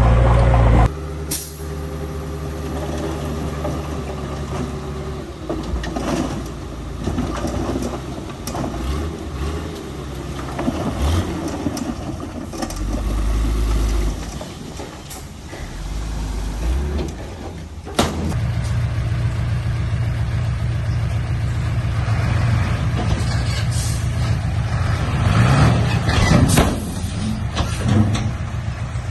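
Heavy diesel truck engines running under load. The sound changes abruptly about a second in and again around 18 seconds in, with a few sharp hisses or knocks.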